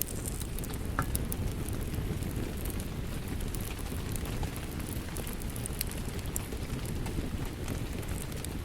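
Crackling fireplace fire and steady rain: a dense, even low rumble under scattered sharp pops and snaps.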